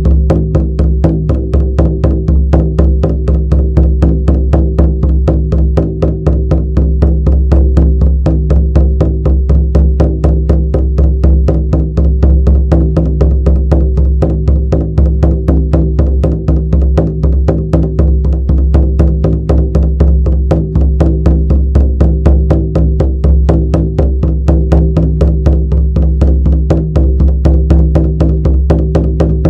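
Shamanic frame drum beaten in a steady, even rhythm of about four strikes a second, over a continuous deep hum.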